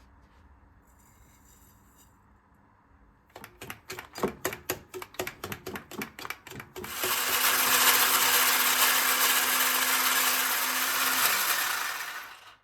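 A run of quick clicks, about four or five a second, then a small electric kitchen appliance of the blender kind runs loud and steady with a low motor hum for about five seconds and switches off near the end.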